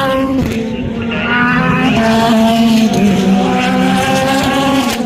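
Race car engines running hard at high revs, the pitch climbing and falling back several times as the cars shift and pass.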